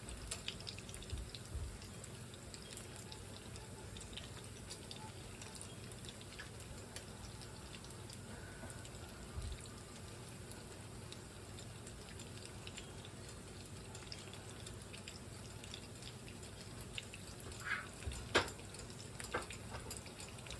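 Pots on a kitchen stove simmering and steaming: a faint, steady bubbling with scattered light ticks, and a few sharper clicks near the end.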